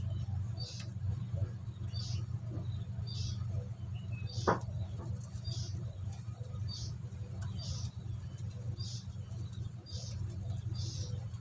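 Short high-pitched squeaks or chirps repeating steadily, a little more than one a second, over a steady low hum, with one sharp click about four and a half seconds in.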